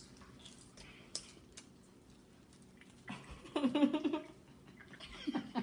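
A quiet room with a few faint clicks, then about three seconds in a person's voice makes a short sound lasting about a second and a half.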